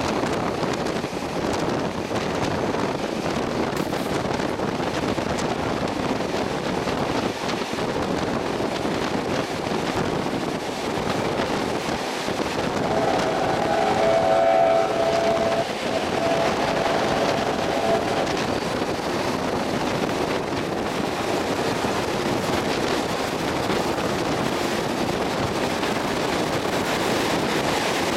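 Steam-hauled heritage passenger train running, heard from an open carriage window: a steady rush of wind and wheels on the rails. About halfway through, a train whistle sounds for several seconds.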